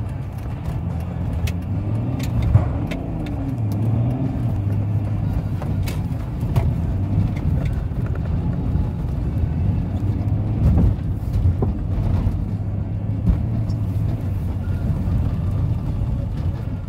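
BMW X3 E83's 3-litre straight-six diesel driving over snow, heard from inside the cabin: a steady low engine drone that wavers a little in pitch. Scattered sharp knocks and clicks as the car bumps along, the loudest about two and a half seconds in.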